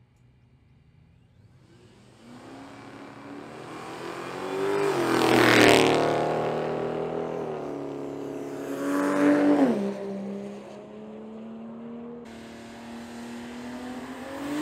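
A car engine at speed, growing louder and rising in pitch, then loudest about six seconds in and dropping in pitch as it passes. Another pitch drop follows near nine and a half seconds, then a steady engine note.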